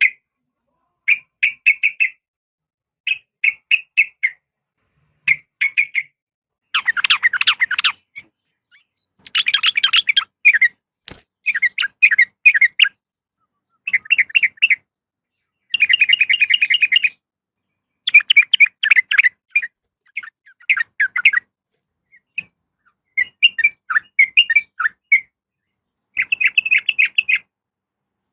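Sooty-headed bulbul calling in short, bubbly phrases of several quick notes, repeated every second or two with brief gaps; a trucukan call presented as a female calling for a male.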